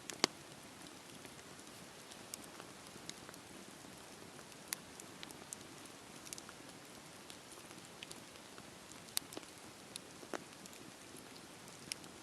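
Campfire burning with a steady soft hiss and irregular sharp crackles and pops of the wood, the loudest pop just after the start and another about nine seconds in.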